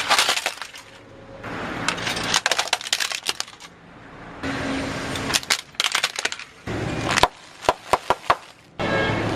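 Short clips cut together of something crunchy breaking: dense runs of sharp cracks and crackles, changing abruptly at each cut.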